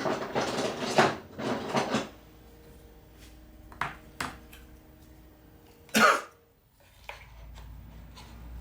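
Tools and a clamp being handled and clattering on a workbench, with a few sharp clicks, and one short loud burst about six seconds in.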